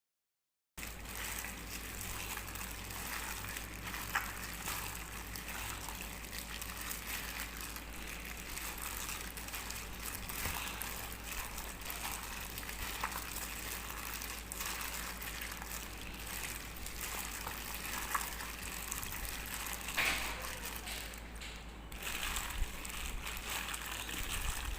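Steady hissing noise with a few scattered clicks, starting abruptly about a second in.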